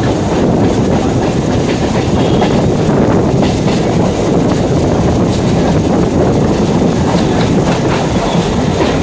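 Steady rumble of a moving electric multiple unit (EMU) suburban train heard from on board, with wheels clicking over the rail joints.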